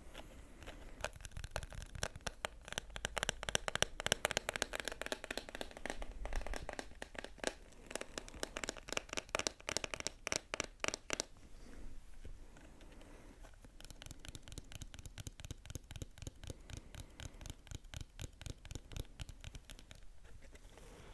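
ASMR scratching: fast, dense strokes, bright and crisp in the first half, turning softer and duller about halfway through.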